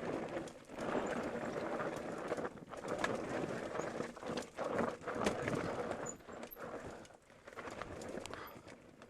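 Mountain bike rolling fast over a rough dirt trail: tyres crunching over gravel and the bike rattling with many small knocks. It gets quieter in the last couple of seconds.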